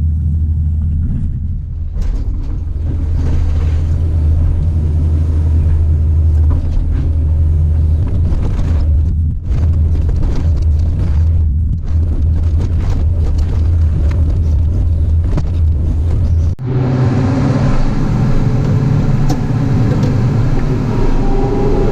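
Caterpillar 973C crawler loader's diesel engine running steadily under work, with rough clatter over a strong low hum. About three-quarters of the way through, the sound changes abruptly to a busier mix of higher engine tones.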